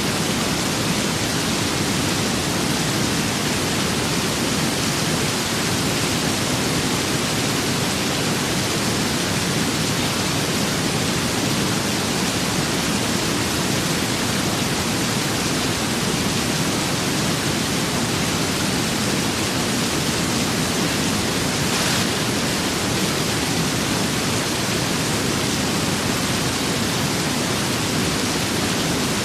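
Steady rain with wind, an even unbroken hiss with no single drops or gusts standing out.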